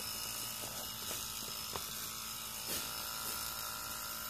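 Small 6-volt electric transfer pump running steadily with a constant hum as it pumps gasoline out of a car's fuel tank.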